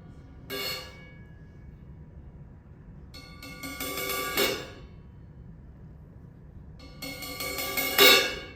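Metal percussion being played: a single short hit, then two runs of quick strikes that build in loudness and stop sharply, each leaving a bright, shimmering ring. The second run ends on the loudest stroke.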